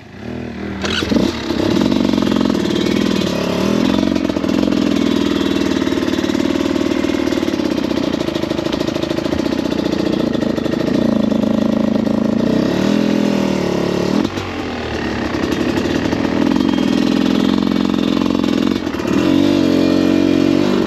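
Dirt bike engine running at low revs, the throttle blipped and eased over and over so the pitch rises and falls, with a brief drop in revs a little past halfway.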